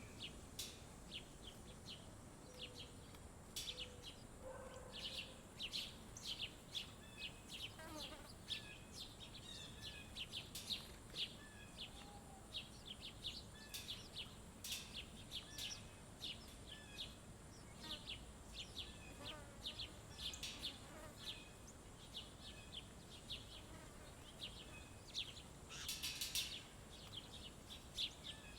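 Small birds at a feeder chirping and calling, with frequent short high chirps throughout and a few lower calls mixed in, over a steady faint high-pitched tone.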